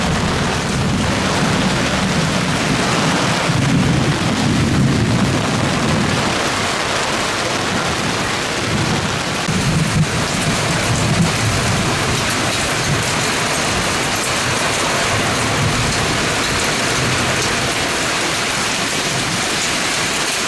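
Heavy downpour: dense, steady rain pouring down and hitting surfaces. There is low rumbling through the first six seconds and again around ten seconds in.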